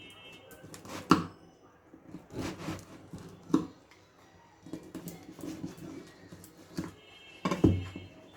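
Pizza being cut, with a handful of sharp knocks and taps of the cutting tool; the loudest come about a second in and near the end.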